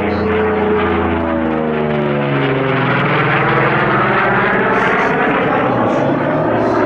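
Vought F4U Corsair's Pratt & Whitney R-2800 radial engine and propeller, loud as it flies past. The pitch falls over the first two or three seconds as it passes, then holds steady.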